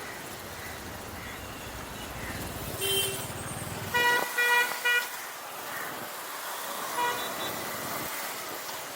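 Vehicle horns honking in street traffic: one short high honk about three seconds in, then three quick loud toots, then a fainter honk near the end, over the steady noise of a motorcycle ride.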